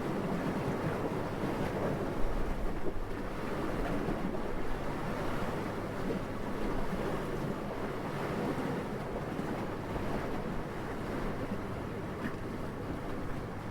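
Steady wind blowing, its noise sitting mostly low, with a brief stronger gust about two seconds in.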